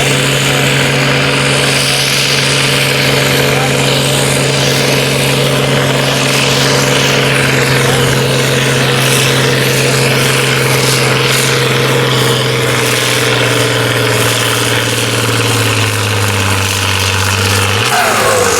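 Farm tractor's diesel engine running hard at a steady pitch while pulling the sled, then easing off with its pitch stepping down near the end.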